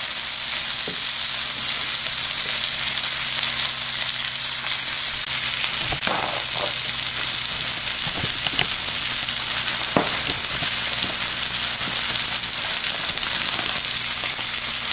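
Sliced mushrooms and onions sizzling in olive oil on a hot electric griddle, a steady frying hiss that holds at an even level.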